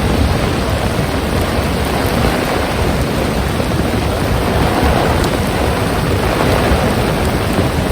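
Heavy rain in strong wind: a steady, dense hiss of rain with a low rumble of wind buffeting the microphone.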